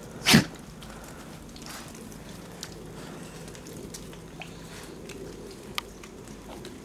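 A single short sneeze about a third of a second in, followed by faint scattered crunching sounds.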